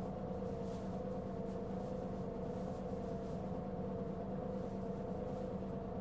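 Mitsubishi Fuso Aerostar LKG-MP37FK city bus engine idling, heard from inside the cabin: a steady hum with a few constant tones that hold one pitch throughout.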